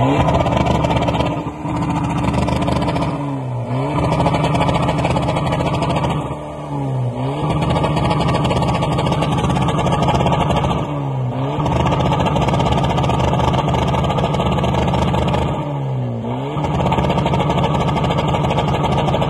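Alfa Romeo 147's engine revved through its exhaust, held at steady high revs and dropping briefly before climbing back about five times.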